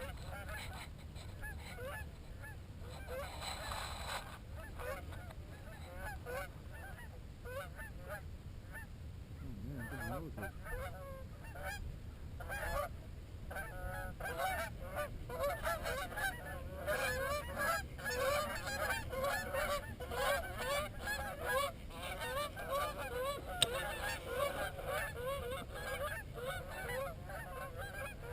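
A flock of geese honking: many short overlapping honks, sparse at first and then much busier and louder from about halfway.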